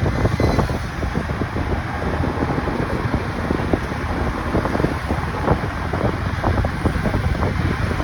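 Wind buffeting the microphone on a moving motorcycle, over the steady rumble of the engine and road noise.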